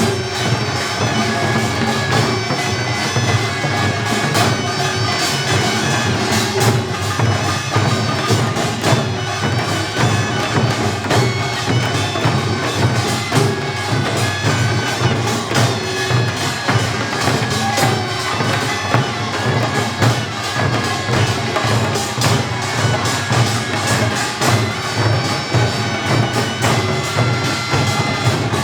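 Taepyeongso, the Korean double-reed shawm, playing a loud reedy melody over a steady pungmul percussion beat of drums and gongs.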